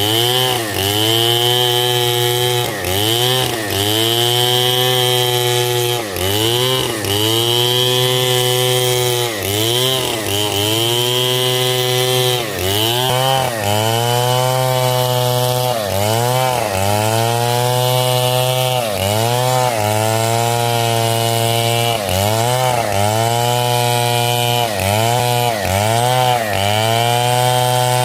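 Stihl 070 two-stroke chainsaw cutting hard coconut wood at full throttle. The engine pitch drops and recovers over and over, about once a second, as the chain bogs under load in the cut.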